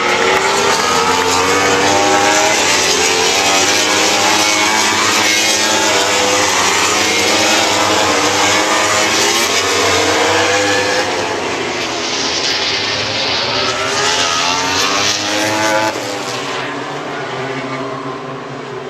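MotoGP race motorcycles passing at speed, several engines at once, their pitch rising and falling as they go by. The sound eases off somewhat in the last few seconds.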